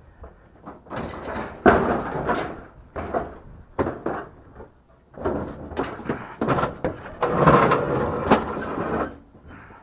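Irregular knocks, clunks and scraping as scrap items are shifted about and rearranged to make room, busiest in the second half.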